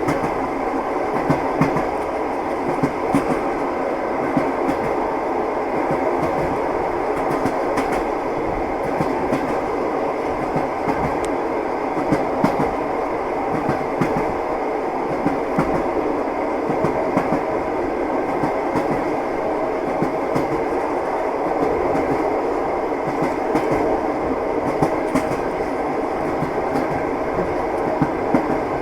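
Train wheels running over rail joints: a steady rolling rumble with sharp clickety-clack knocks scattered through it.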